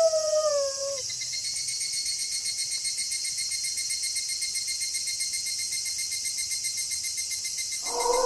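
A wolf's howl trails off, falling in pitch, in the first second. Then there is a steady, rhythmic chirping of crickets, until another long wolf howl begins near the end.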